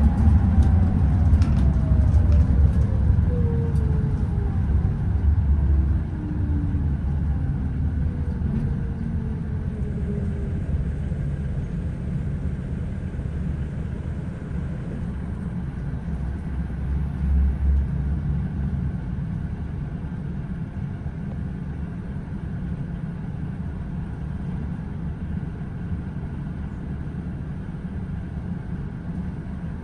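Scania OmniExpress coach running with a steady low rumble, a whine falling in pitch over the first ten seconds as it slows, then running on more quietly.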